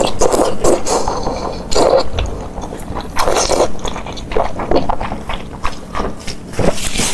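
Close-miked mukbang eating sounds: a person chewing and biting food, coming in short, irregular spurts.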